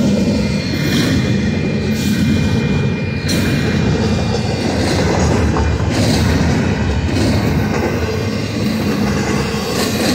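Union Pacific double-stack intermodal freight cars rolling past close by: a steady rumble of steel wheels on rail, with a light clack every second or so as wheels cross rail joints.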